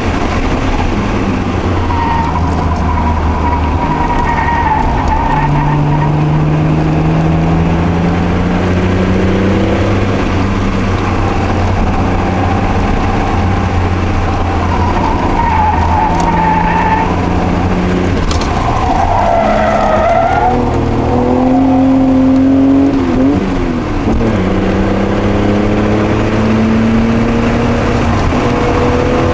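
Mk2 Toyota Supra's 5M-E inline-six heard from inside the cabin at full throttle, its pitch climbing through each gear and dropping at the shifts. The tyres squeal several times through the corners.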